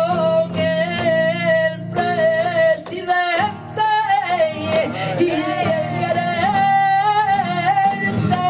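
Flamenco cante in the tientos style: a voice singing long, wavering, ornamented lines over flamenco guitar, with sharp percussive hits throughout.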